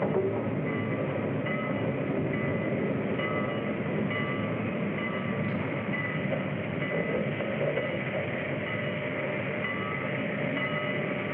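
Train running along the track: a steady rumble and rattle of the wheels and cars, with no break in the noise.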